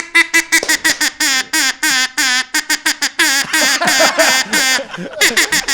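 Duck call blown in a fast run of short, reedy quacks, about seven a second, with a few longer bending notes from about three seconds in.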